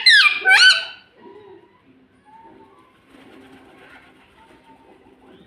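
Green ringneck parakeet giving a few loud, shrill calls that sweep up and down in pitch in the first second, followed by faint low sounds for the rest.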